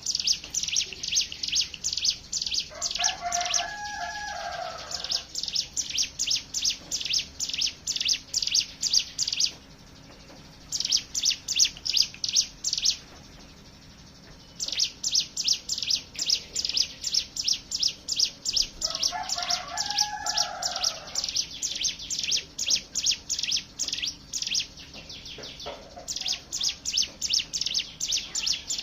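Ciblek gunung (hill prinias) singing in a chorus: a long, rapid rattling train of sharp, high chips at about four a second, the 'ngebren' song used as a lure for cage birds. The train pauses briefly twice, and a lower, slurred bird call sounds twice underneath it.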